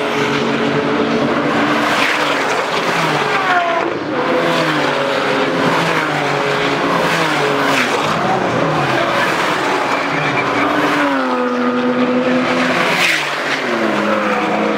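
High-performance sports car engines on a race track. Several overlapping engine notes rise and fall in pitch as the cars accelerate and come off the throttle through the gears.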